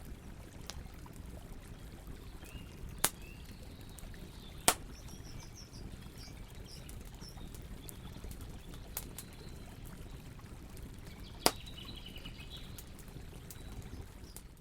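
Campfire burning with a steady low rumble and three sharp wood pops, while small birds chirp faintly in the background.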